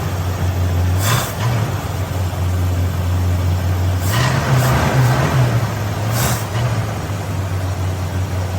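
1965 Ford Mustang engine idling steadily, with a brief rise in pitch around four seconds in and a few short rushes of hiss; the owner suspects a vacuum leak.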